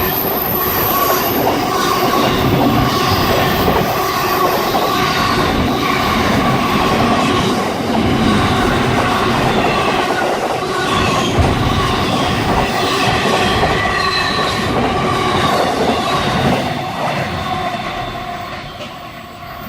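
Freight train running past at speed: wagon wheels rumble and clatter on the rails, with thin squealing tones over the noise. It fades away over the last few seconds as the end of the train passes.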